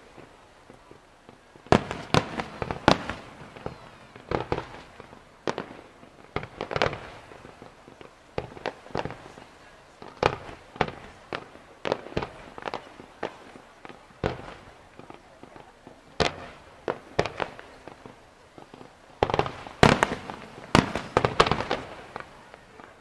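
Professional aerial fireworks: shells and comets firing and bursting in a rapid, irregular series of sharp bangs, heaviest about two seconds in, again around seven seconds, and most densely near the end.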